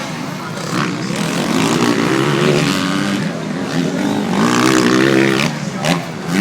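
Motocross bike engines revving on the track, the pitch climbing and dropping repeatedly as the riders accelerate, shift and back off.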